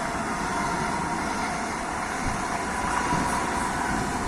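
AVE Class 103 high-speed train (Siemens Velaro E) going past: a steady rushing noise with a faint whine.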